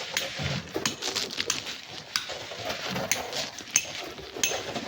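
Irregular clinks, knocks and scrapes of hand tools working loose sand and stones.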